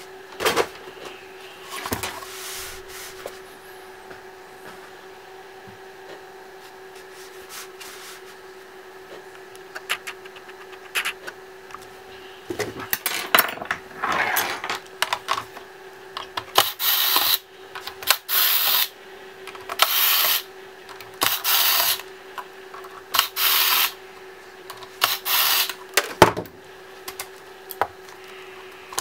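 Handling clicks on a laptop casing, then an electric screwdriver run in about eight short bursts of half a second to a second each, removing screws during laptop disassembly.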